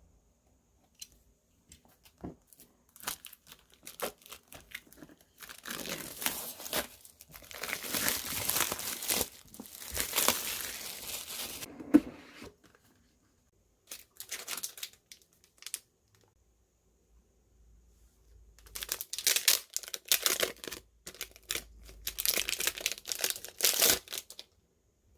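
Packaging being crinkled and torn open by hand: scattered light taps and clicks, then several long bursts of crinkling and tearing, with a sharp snap about twelve seconds in.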